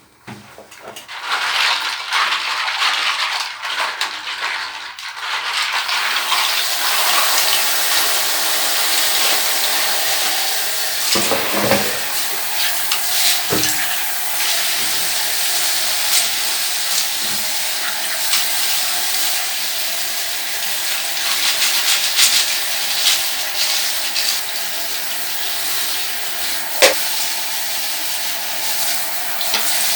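Tap water running and splashing over a Xenics K3 keyboard being washed under it. It comes on right at the start and grows fuller over the first few seconds, then runs as a steady hiss with a few light clicks and knocks, a sharper click near the end.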